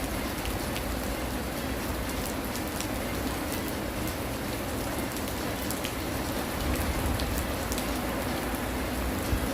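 Steady heavy rain falling, with individual drops ticking sharply close by. A low rumble grows stronger in the second half.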